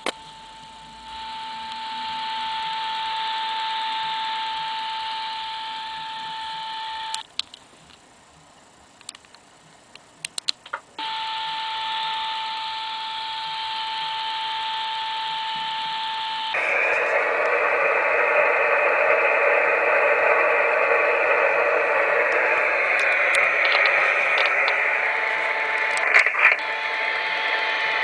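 Amateur radio receiver's speaker giving a steady beat tone from the Si5351A signal generator's test carrier over receiver hiss. The tone cuts out with a few clicks for about four seconds, returns, and about 16 seconds in gives way to louder, wider hiss with the tone fainter beneath it.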